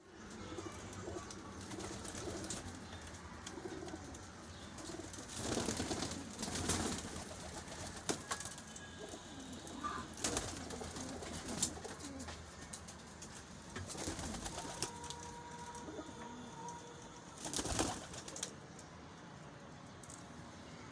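Parwazi pigeons cooing in low, wavering calls throughout, with a few short, louder bursts of noise in between.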